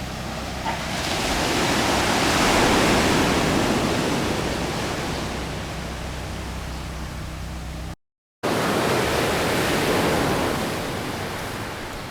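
Loud rushing noise like surging water or wind, swelling and fading, with a low steady hum underneath; it breaks off briefly about two thirds of the way through, then swells again.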